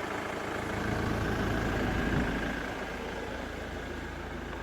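Ford Mondeo ST TDCi's 2.2-litre four-cylinder diesel engine idling smoothly with its exhaust refitted.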